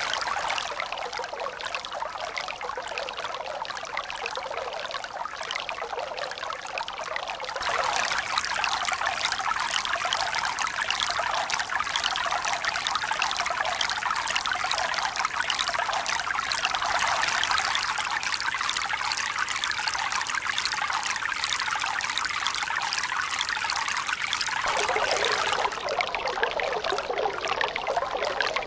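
Running water, a steady splashing hiss with no swell or rhythm. It turns abruptly brighter and louder about a quarter of the way in, and changes again near the end.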